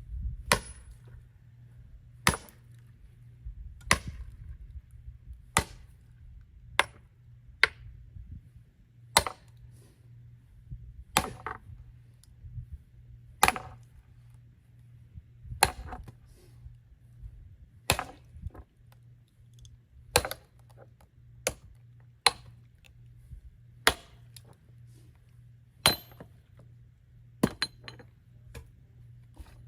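Axe striking a log over and over, about eighteen sharp hits at roughly one every one and a half seconds, some with a short metallic clink. The blade is not biting into the wood.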